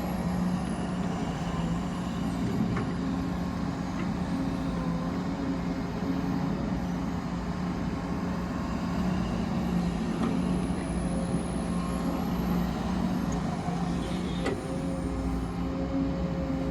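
Heavy diesel mining machinery, an excavator and haul truck, running with a steady low engine drone, with a few faint clicks.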